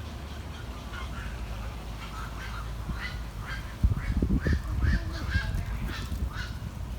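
Waterfowl calling over and over in short honking calls, about two a second, over a steady low rumble. A few loud low thumps come about four to five seconds in.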